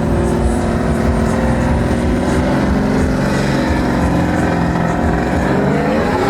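Truck engine held at high revs, its pitch sagging slightly midway and then climbing near the end.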